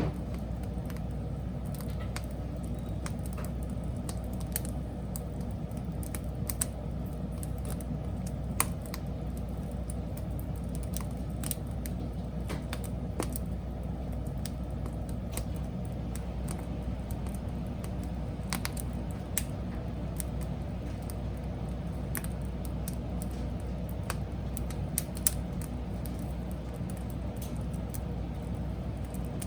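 Wood fire burning: irregular sharp crackles and pops from the burning wood over a steady low rumble.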